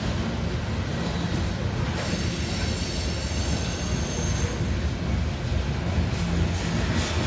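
Coal train's freight cars rolling past: a steady low rumble of steel wheels on rail, with a thin high-pitched wheel squeal for a couple of seconds in the middle and clicks of wheels over rail joints near the end.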